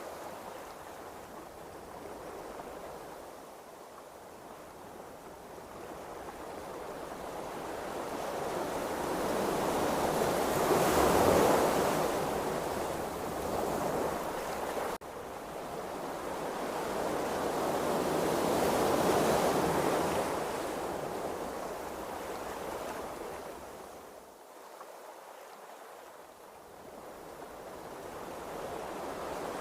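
Ocean waves rushing and swelling, rising to two peaks about eight seconds apart and easing off between them, with a brief dropout halfway through.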